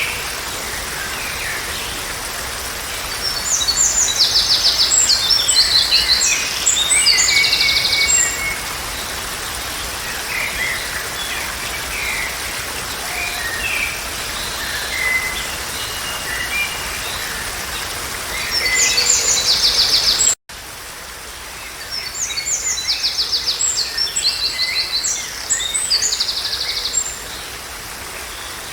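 Songbirds singing in bursts of high, rapidly trilled phrases, three longer phrases with scattered short chirps between, over a steady background hiss. The sound cuts out for a moment about two-thirds of the way through.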